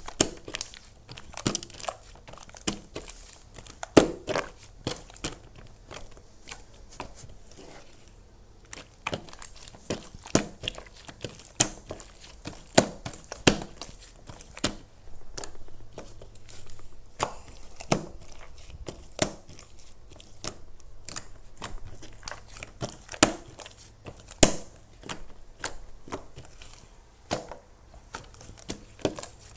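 Crisp crinkling and crackling of a crinkly handmade object being squeezed and handled, in sharp, irregular crackles.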